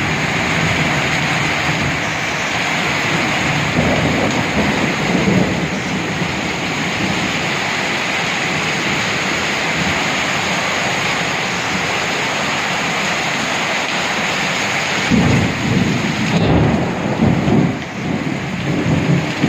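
Heavy rain pouring steadily, with thunder rumbling twice: once about four seconds in and again, louder and longer, near the end.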